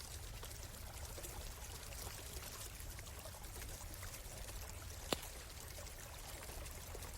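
Stream water flowing steadily, with a campfire crackling in small sharp snaps and one louder pop about five seconds in.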